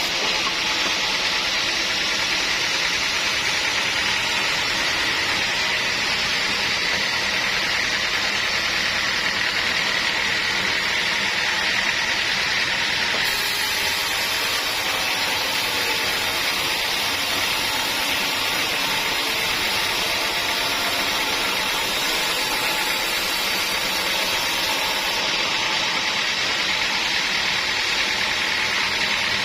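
Sawmill machinery running steadily: a loud, even mechanical hiss and hum that goes on without a break.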